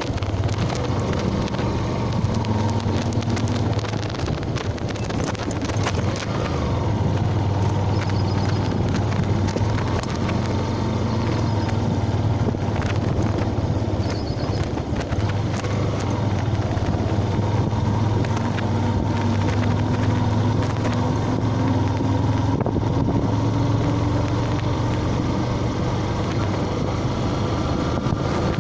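Yamaha FZ-S motorcycle's single-cylinder engine running under way with a steady drone, its pitch climbing gradually over the last several seconds as the bike speeds up.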